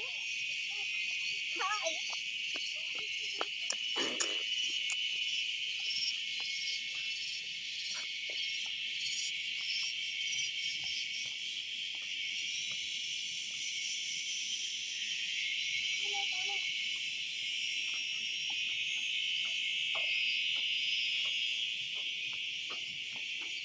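A dense, steady chorus of forest insects: a continuous high-pitched drone. A few faint short sounds come through about two and four seconds in and again around sixteen seconds.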